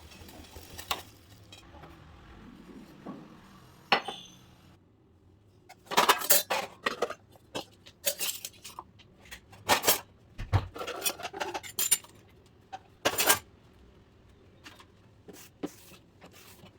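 Metal kitchen utensils and dishes clinking and clanking against each other in irregular bursts of sharp knocks, thickest in the middle of the stretch.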